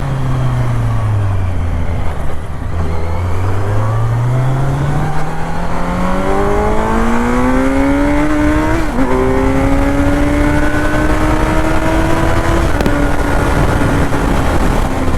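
Motorcycle engine easing off, then accelerating with a steadily rising pitch for several seconds, a quick gear change about nine seconds in, and a slower climb after it before easing off again near the end.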